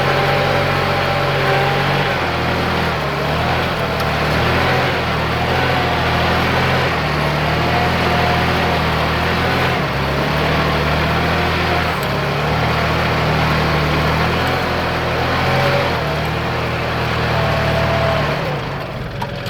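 Kubota farm tractor's diesel engine running steadily while plowing a wet rice paddy, its pitch wavering up and down as the load changes. The sound drops off briefly near the end.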